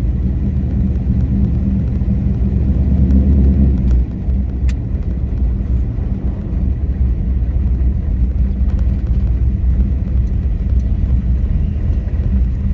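Pickup truck engine running with a steady low rumble. It drops in level about four seconds in, and a light click follows shortly after.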